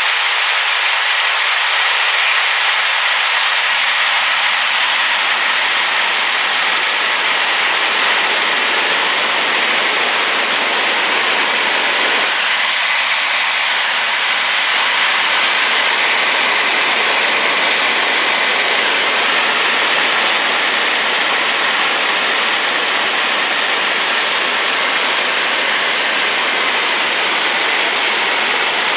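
Waterfall in spate after rain, the falling water making a loud, steady rushing noise.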